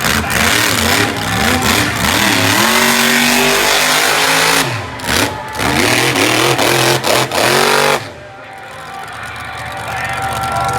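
Monster truck engine revving hard, its pitch rising and falling with the throttle, with several brief throttle cuts around the middle. About eight seconds in it drops away sharply, then slowly builds back up.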